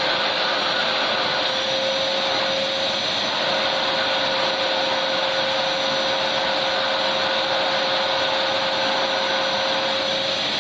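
Electric vacuum cleaner running steadily: an even rushing noise with a constant motor hum and a faint high whine, unchanging throughout.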